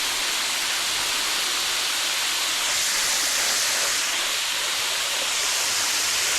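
Water running steadily into a livestock waterer as it is filled, a constant rushing hiss.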